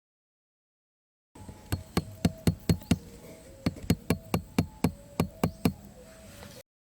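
Hammer blows striking wood: a rapid run of sharp knocks, about four a second, starting after a second of silence, with a short pause in the middle.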